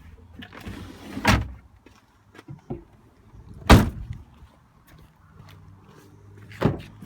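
Doors of a Peugeot 4007 SUV being shut: three heavy thuds, about a second in, near the middle (the loudest) and near the end, with a brief rustle before the first.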